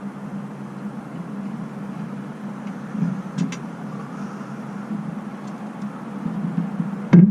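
An engine idling steadily, with a couple of faint clicks about three and a half seconds in. A loud sound cuts in right at the end.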